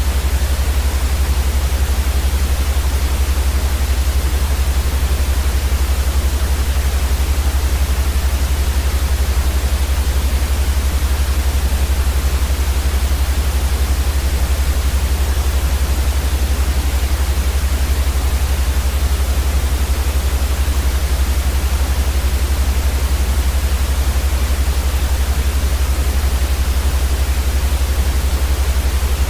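Steady, unchanging white noise as a baby sleep aid: an even hiss across the whole range with a louder deep rumble at the bottom.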